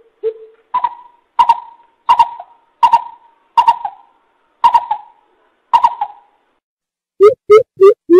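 Coucal (bubut) calling: a series of hollow hooting notes about 0.7 s apart. Near the end it breaks into a faster run of deeper hoots, about three a second.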